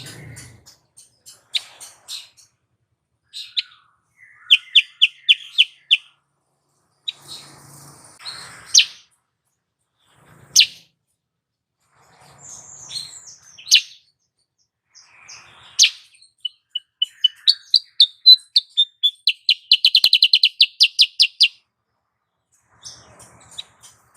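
Female kutilang sutra, a bulbul, calling: sharp single chirps and short quick runs of notes, building to a long rapid string of chirps near the end.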